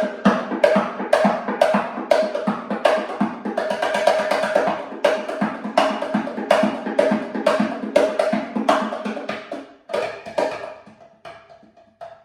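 Wooden bongo cajon played in a fast groove that moves between its higher and lower tones. There is a dense run of strokes about four seconds in, and the playing grows softer and sparser near the end.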